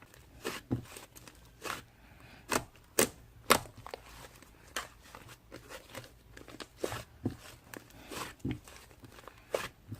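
Slime being squeezed and pressed by hand, making irregular sharp pops and clicks, the loudest about three and a half seconds in.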